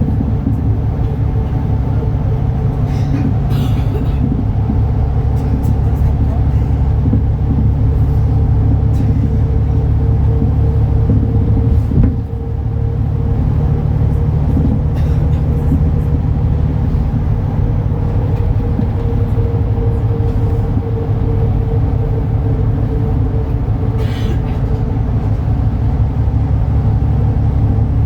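MAN A37 Lion's City NL293 city bus driving, its diesel engine running steadily with a deep rumble and a constant whine, dipping briefly about twelve seconds in. A few short hissing or rattling noises come through about three, fifteen and twenty-four seconds in.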